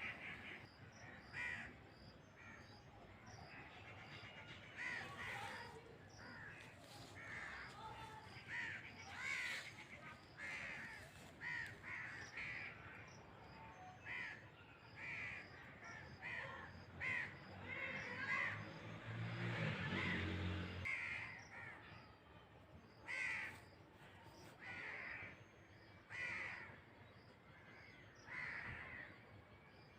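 Birds calling over and over in short calls, about one a second. A low hum swells about two-thirds of the way through and stops suddenly.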